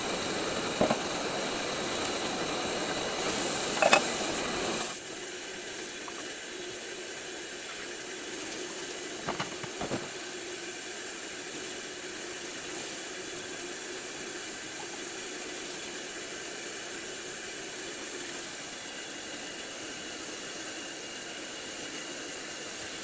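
Steady hiss of water running into a kitchen sink, with a few light clinks, for about the first five seconds; then it drops to a softer steady hiss.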